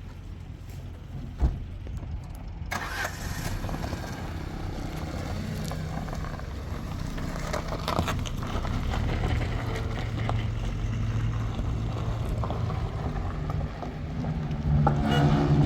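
A single thump, then a vehicle engine starts a few seconds in and runs steadily, growing louder near the end.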